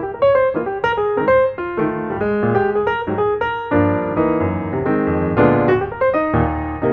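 Background music: a piano playing a flowing melody over chords.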